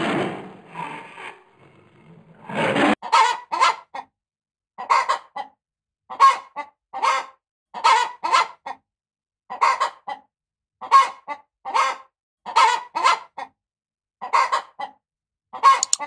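Poultry calling in short, sharp calls, mostly in pairs, repeating about once a second with clean silence between them. Before the calls start, about three seconds in, there is a rough, noisy sound.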